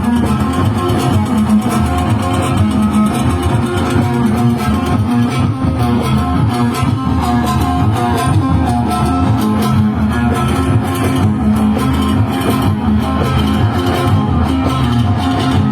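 Band music at a party, led by plucked guitar with bass, playing continuously at a steady level.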